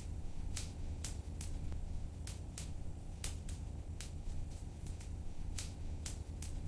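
Wood fire crackling in a fireplace: sharp, irregular pops about two a second over a steady low rumble.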